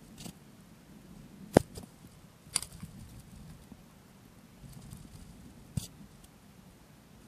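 Handling knocks and clicks on a boat as a bass is unhooked from a landing net: three sharp knocks, the loudest about a second and a half in, another a second later and a third near the end, over a low steady rumble.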